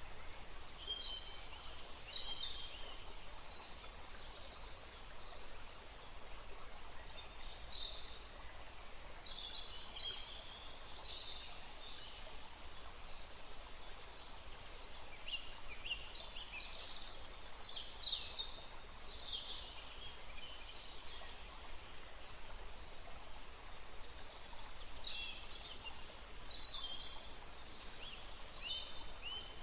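Songbirds chirping in clusters of quick high notes at several points, over a steady rushing background of outdoor noise.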